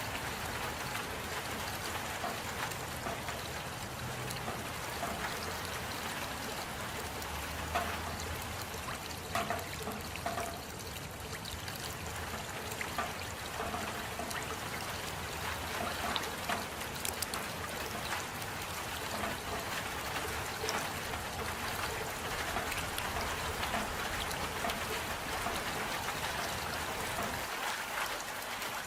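Steady rain falling, with scattered drop ticks over an even hiss.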